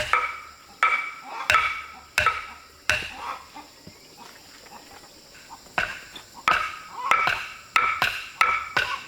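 Repeated strikes of a metal tool, each with a short ringing tone, about one every 0.7 seconds. They pause about a third of the way through, then come back quicker near the end.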